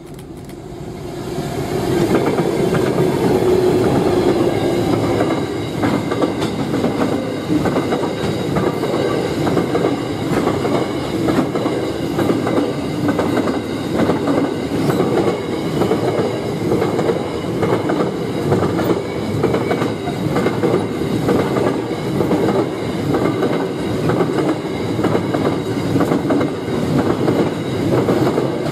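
Freight train passing close by. It grows loud over the first two seconds as the locomotive arrives, then the wagon wheels keep up a steady, rapid clatter over the rail joints.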